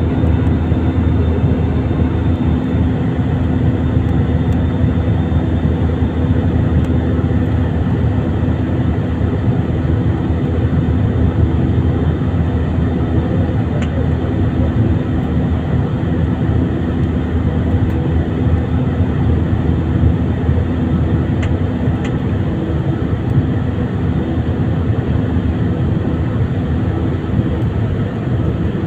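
Airbus A320ceo's jet engines running under power during takeoff, a steady, unchanging rumble with a constant hum over it.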